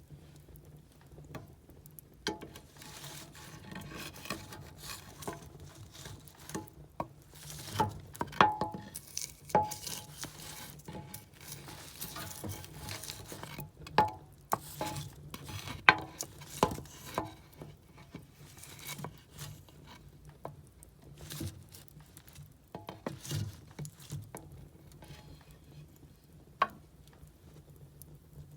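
Firewood burning, crackling and popping irregularly with a few sharp louder snaps, over a low steady hum.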